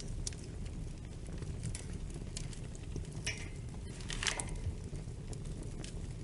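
Wood fire burning in a fireplace: a steady low rumble with scattered small crackles, and two louder pops about three and four seconds in.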